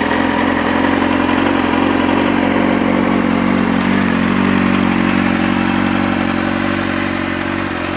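2004 Kawasaki ZX-6RR's inline-four engine idling steadily through an Arrow titanium slip-on exhaust, with the engine still cold.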